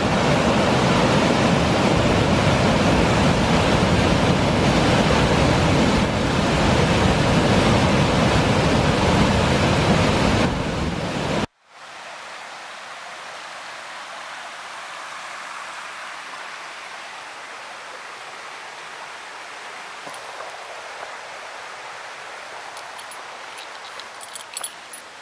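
Kivach waterfall's water rushing loudly and evenly. About eleven seconds in it cuts off suddenly to a much quieter, thinner hiss of water, with a few light clicks near the end.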